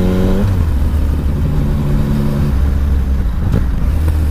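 Yamaha Tracer 900 GT's inline three-cylinder engine running on the move. Its pitch climbs slightly, then drops about half a second in as the revs fall, and it then runs steadily at lower revs. A brief click comes near the end.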